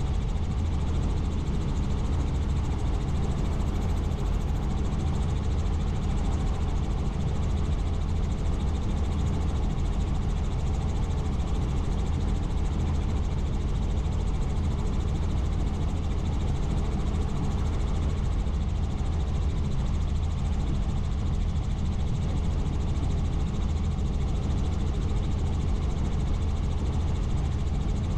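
Helicopter in flight, its rotor and engine making a steady, low drone.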